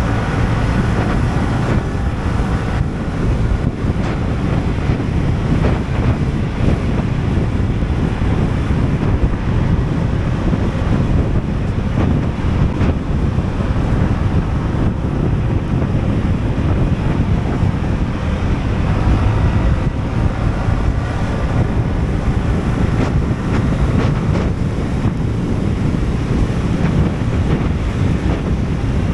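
Steady wind rush buffeting the microphone of a moving scooter, with the Sym Jet X 125's single-cylinder engine running faintly underneath.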